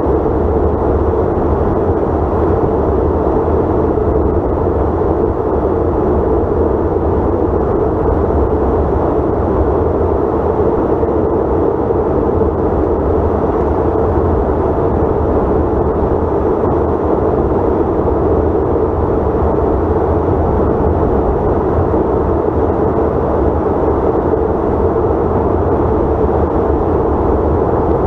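Steady cabin roar of a CRJ900 regional jet in flight: airflow noise and the hum of its rear-mounted turbofans, unchanging throughout.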